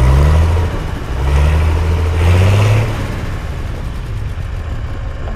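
An engine revving up twice in the first three seconds, each time rising in pitch, then running on more quietly and steadily.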